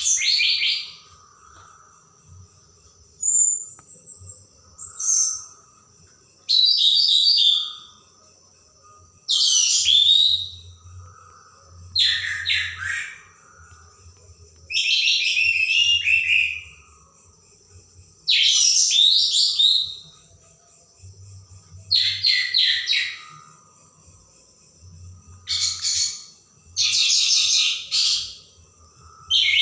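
Orange-headed thrush singing loud, sharp phrases of about a second each, repeated every two to three seconds.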